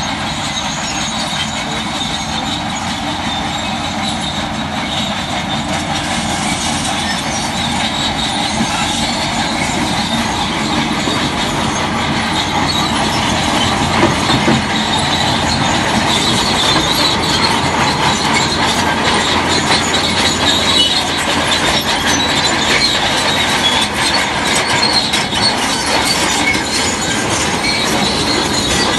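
Shantui DH17C3 crawler bulldozer at work: its diesel engine and steel tracks running steadily, with the clanking and squealing of the track chain, growing slightly louder.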